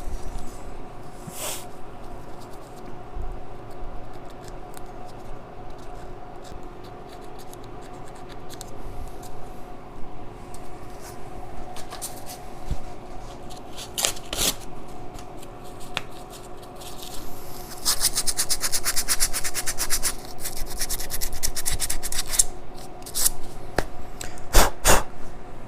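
Razor blade scraping old gasket material off a metal flange in short, irregular strokes, with a fast run of quick scrapes past the middle and a couple of sharp clicks near the end.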